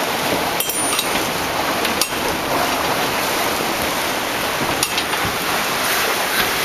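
Strong wind rushing over the microphone as a steady loud roar, with a few sharp clicks or knocks about half a second, two seconds and five seconds in.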